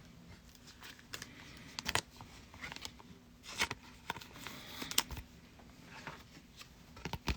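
Trading cards being handled and set down on a table: faint, scattered light clicks, slides and rustles.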